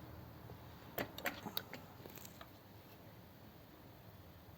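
A handful of light clicks and knocks over about a second and a half, starting about a second in, then quiet: hand work at a carburettor, checking whether the accelerator pump squirters deliver fuel.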